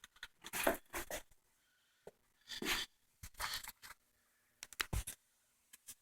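Short irregular bursts of rustling and scraping, about four clusters, with a few sharp clicks.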